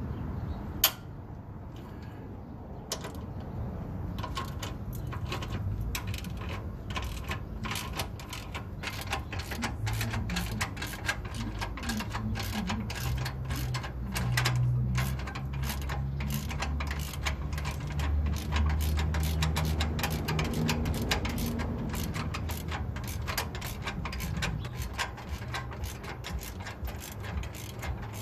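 Ratchet wrench clicking fast as the hitch bolts are backed out, with one sharp click about a second in. A low hum joins in for a while in the middle.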